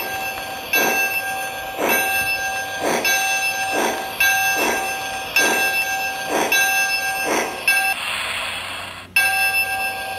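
O scale model train running: a steady high-pitched whine with a swishing beat about once a second. Near the end the whine gives way to a hiss, cuts out briefly, then returns.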